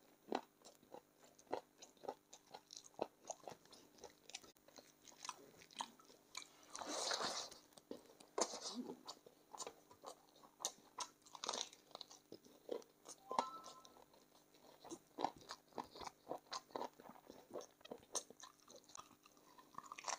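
Close-up mouth sounds of someone eating chicken feet: repeated sharp crunches and wet chewing clicks as the cartilage and small bones are bitten, with a longer noisy rush about seven seconds in.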